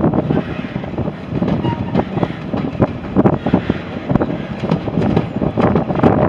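Rumbling train noise mixed with heavy wind buffeting on the microphone, uneven and gusty.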